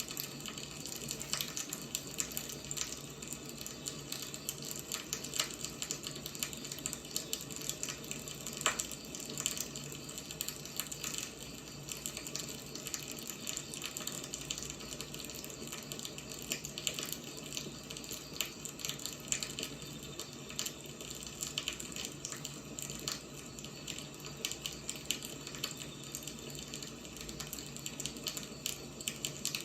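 Firewood burning: a steady hiss with frequent small crackles and pops, one sharper pop about nine seconds in.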